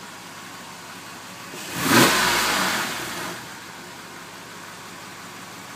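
A 2002 Porsche 911 (996) Carrera 2's flat-six idles warm through its stock exhaust. About one and a half seconds in it is revved once; the rev peaks about two seconds in and settles back to idle over the next second and a half.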